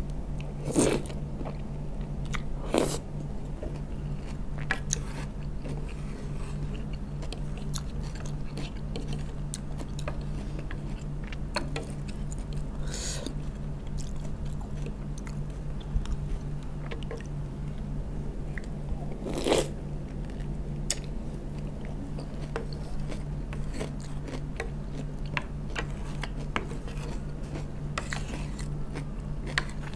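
Close-miked chewing and crunching of crisp pickled vegetables in asinan sayur, with occasional light clicks of a wooden spoon and fork against a cast-iron pan. A few louder sharp sounds stand out about a second in, near three seconds and around twenty seconds, over a steady low hum.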